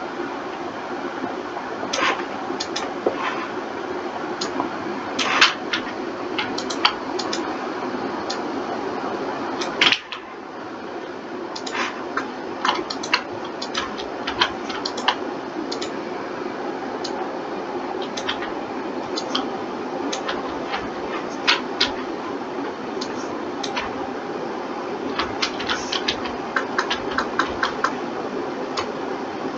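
Irregular sharp clicks of a computer mouse and keyboard, sometimes several in quick succession, over a steady fan-like hum. The hum drops suddenly about ten seconds in.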